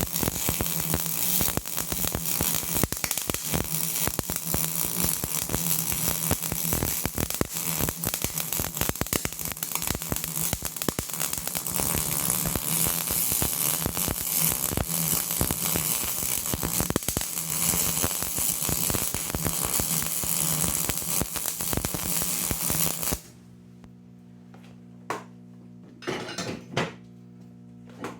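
Electric arc welding on steel plate: the arc's steady crackle over a low hum, filling the joints of the bent bracket. The crackle cuts off suddenly about 23 seconds in, leaving the hum and a few light knocks.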